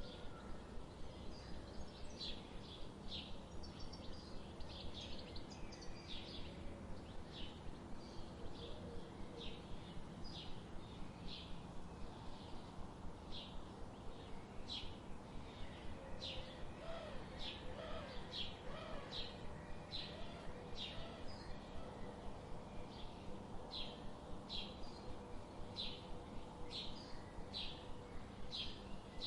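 Songbirds chirping: a long run of short, high chirps repeated every half second or so, over a steady low background noise, with a few fainter, lower calls about two thirds of the way through.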